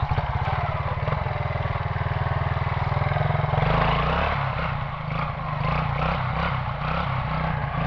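Quad ATV engine running with an even putter, then revving up about three and a half seconds in and running harder and rougher for the rest.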